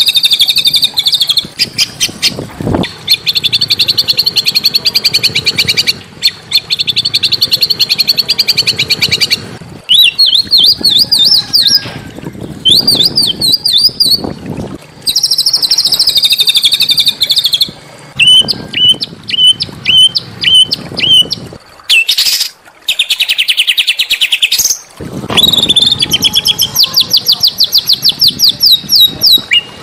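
Small songbirds singing loud, high-pitched fast trills and strings of repeated chirps, in phrases a few seconds long that start and stop abruptly, like an edited recording.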